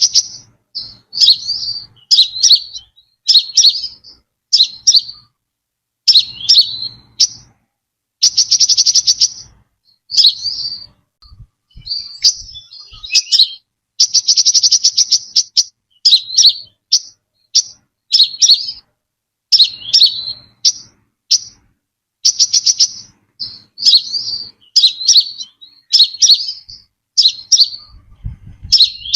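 Brown-throated sunbird singing: short, high chirping phrases about once a second, broken twice by a longer rapid trill of fast repeated notes.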